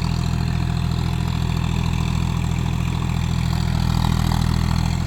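John Deere 5050D tractor's diesel engine idling steadily.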